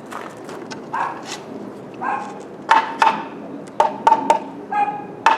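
A hammer striking metal in an irregular series of sharp blows, several of them ringing briefly, coming faster and louder in the second half, as a decoration is fixed in place.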